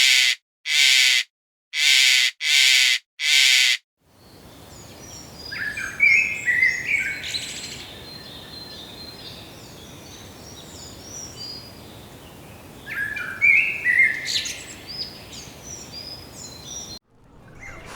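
About five short, harsh, loud calls in a row, then birds chirping in quick high clusters over steady outdoor background noise.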